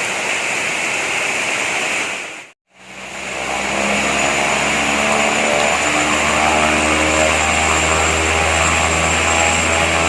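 Heavy rain hissing for about two and a half seconds, then, after a brief break, an airliner's engines running with a steady hum over the continuing rain.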